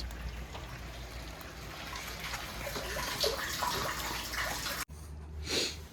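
Rainwater running from a downspout into a rain barrel, a steady stream of falling water as the barrel fills. It cuts off suddenly about five seconds in.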